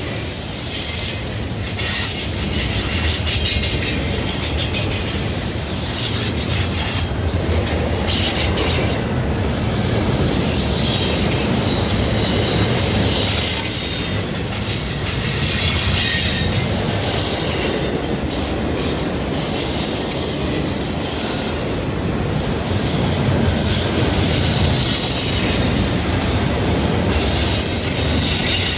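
Double-stack container well cars of a freight train rolling past on a curve: a steady rumble of wheels on rail, with high-pitched wheel flange squeal that comes and goes every few seconds.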